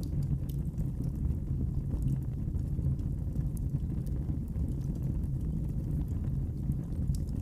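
Wood fire burning in a fireplace: a steady low rumble with scattered small, sharp crackles.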